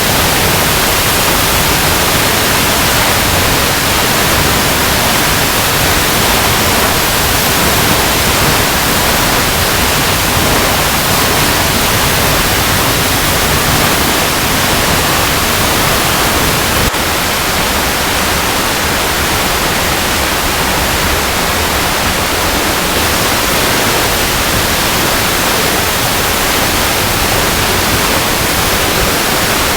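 Waterfall cascading over rocks: a loud, steady rush of falling water with no pauses or rhythm, dipping slightly in level a little past halfway.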